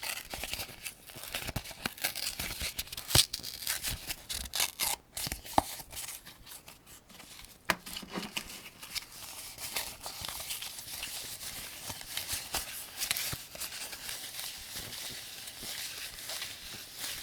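7.62×39 mm cartridges being loaded one by one into a 75-round AK-47 drum magazine. Rounds scrape and click into place in a continuous run of small clicks, with a few sharper clicks standing out.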